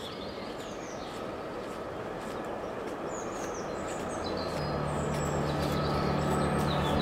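Small songbirds chirping in woodland over a steady rushing background noise that slowly grows louder, with a low steady hum coming in about two thirds of the way through.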